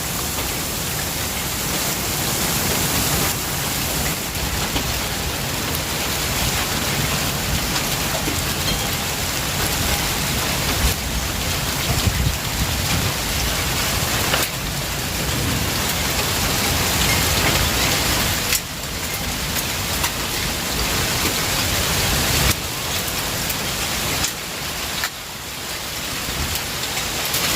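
Heavy rain pouring down steadily, a dense even hiss of drops hitting surfaces, dipping briefly a couple of times.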